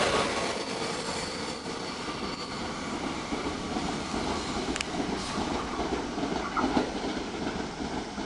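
JR West electric commuter train running out along the platform, its noise fading over the first second. A lower, steady rail rumble follows as another train approaches from the distance, with one sharp click about five seconds in.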